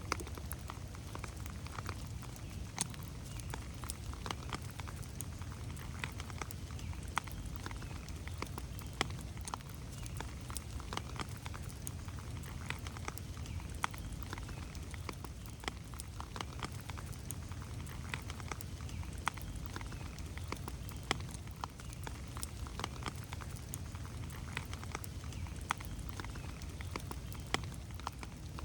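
Steady rain in a forest, with scattered drops striking close by as sharp irregular ticks over a low steady rumble.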